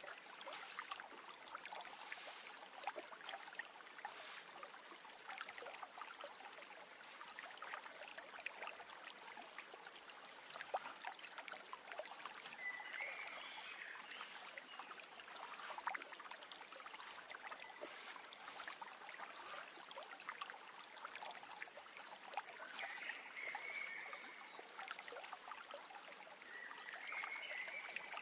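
A stream trickling and babbling steadily, with a bird singing short warbling phrases about halfway through and twice more near the end.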